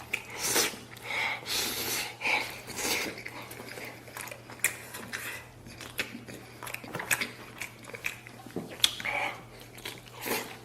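A person eating close to the microphone, biting and chewing spare-rib meat, with irregular clicks and short wet bursts.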